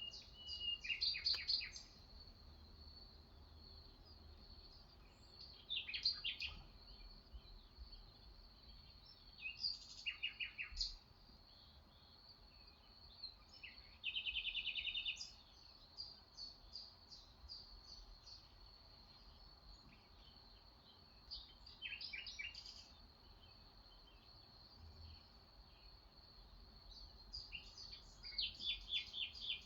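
Small birds singing: bursts of rapid high chirps and trills every few seconds, with a longer buzzy trill about halfway through, over a faint steady high tone.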